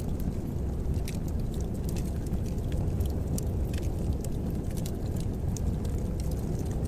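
Fireplace fire crackling: scattered sharp pops and crackles over a steady low rumble of the flames.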